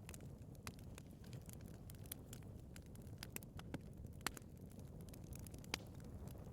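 Wood fire burning in a fireplace: a low steady rumble with irregular sharp crackles and pops, a few louder pops in the second half.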